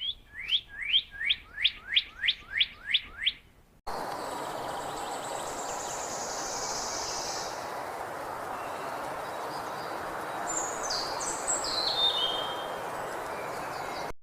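A bird chirping: a quick run of about a dozen short rising chirps, about three a second. After an abrupt cut, faint high bird calls sound over a steady outdoor hiss, a little louder near the end.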